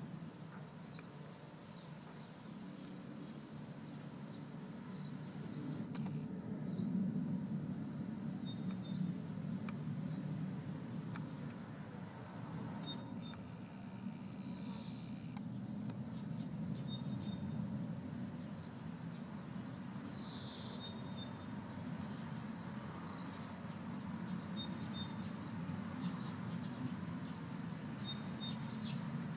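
Outdoor ambience: a bird chirps in short clusters of high notes every few seconds over a steady low rumble.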